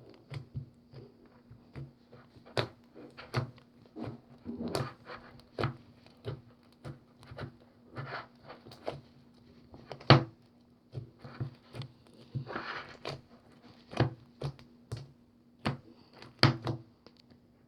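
Slime being pressed and poked by hand, making irregular sticky clicks and pops about twice a second, a few of them louder.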